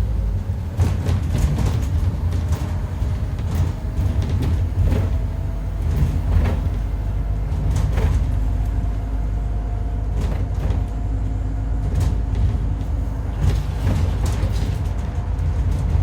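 Scania N230UD double-decker bus with a 9.3-litre Scania engine running, a heavy low rumble with a faint howl that rises slowly in pitch, and frequent short rattles. The howl is the strange noise that the owner suspects comes from a dodgy bearing or worn-out tyres.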